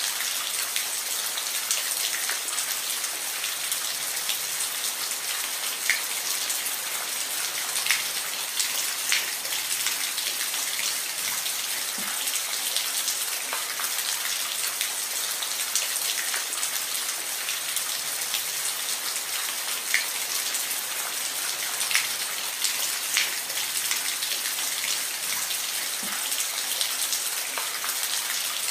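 Steady rain falling, a dense hiss with individual louder drops ticking every second or two.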